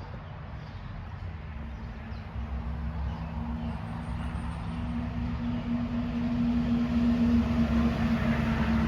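A motor vehicle's engine drawing near: a low rumble with a steady hum that grows louder from about two seconds in.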